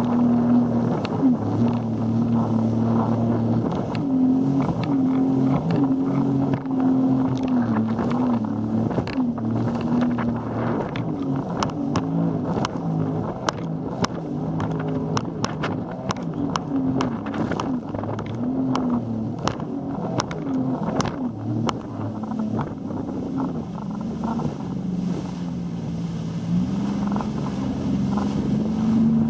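Motorboat engine running under way, its pitch wavering up and down and climbing near the end as it speeds up. Frequent short sharp slaps and a steady rushing noise lie over it.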